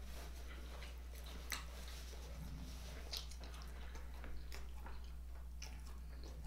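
A man chewing a mouthful of chipotle vegan sausage with ketchup, quiet, with a few faint mouth clicks and smacks.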